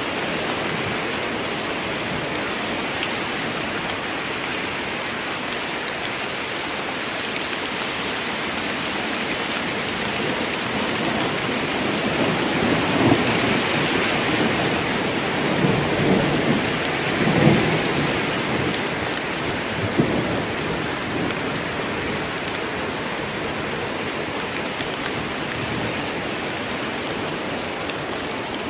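Steady rain falling, with a low rolling rumble of thunder that swells in the middle, peaks a few times, and fades away.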